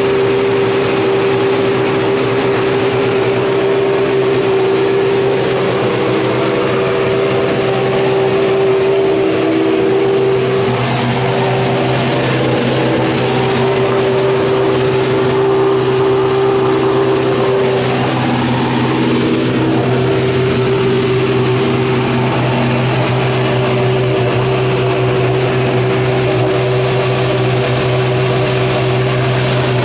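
A racing car's engine idling steadily, with its pitch wavering slightly partway through.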